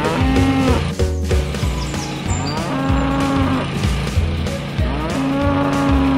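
A cow mooing three times, each call about a second long, over background music with a steady low beat.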